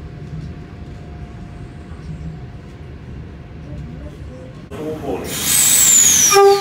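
Steady low rumble of a train running, heard from inside the carriage. Then, abruptly, a loud rush of noise with a high whistle falling in pitch as a V set intercity train arrives at the platform, and a horn note starts just before the end.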